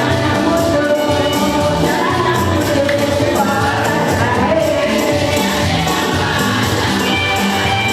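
Group of voices singing a gospel hymn together with musical accompaniment and percussion keeping a steady beat.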